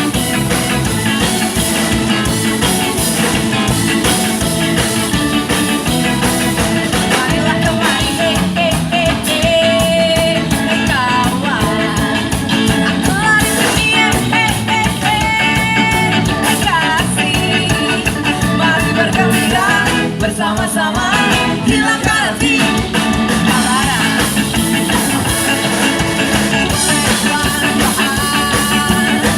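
Ska band music with guitar, drums and a singing voice, loud and steady throughout.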